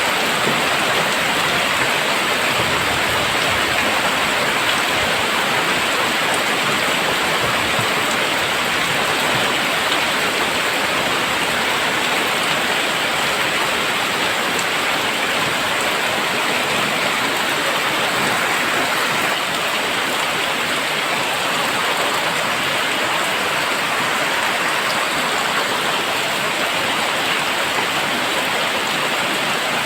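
Very heavy rain pouring steadily, an even dense hiss of water.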